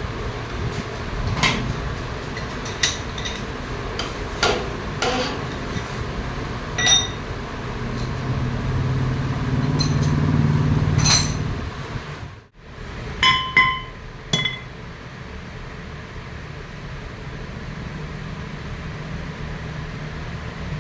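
Metal parts and tools clinking and knocking, about a dozen sharp ringing strikes at uneven intervals, over a steady machine hum. The hum grows louder for a few seconds around the middle and cuts out briefly; only the hum remains in the last few seconds.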